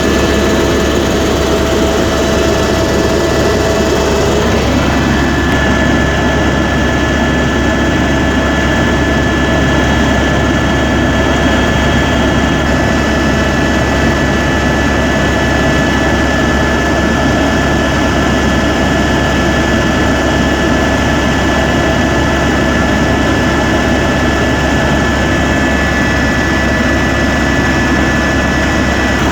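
Helicopter engine and rotor running steadily in flight: a constant low drone with a steady high whine over it, the whine shifting slightly in pitch about five seconds in.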